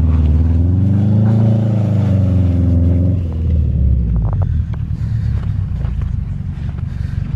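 Car engine revving up and back down, then running at a lower, uneven rumble as the car moves through snow.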